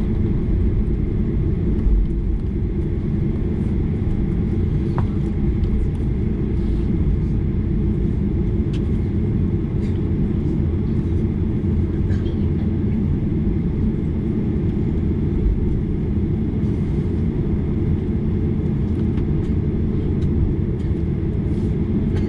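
Steady low rumble heard from inside the cabin of a Boeing 737-800 on the ground after landing: its CFM56 engines running at idle, with a few faint clicks over it.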